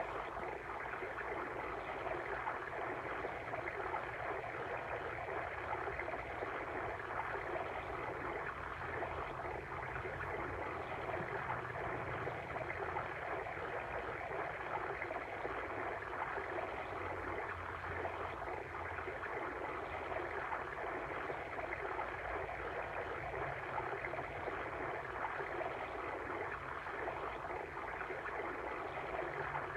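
Water stream flowing steadily, a continuous even rush of running water.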